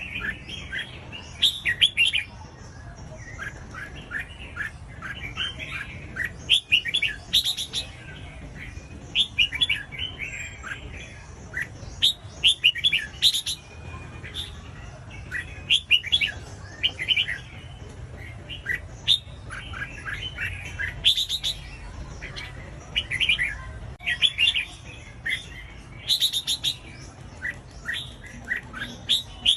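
Red-whiskered bulbul singing: short, quick phrases of chirpy notes repeated every second or two.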